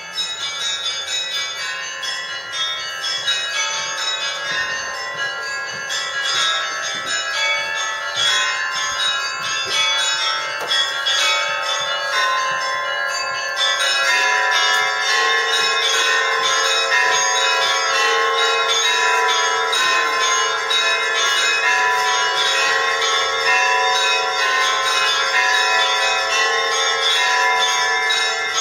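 Church bells ringing in a dense peal, many overlapping strokes, growing fuller and louder from about halfway through.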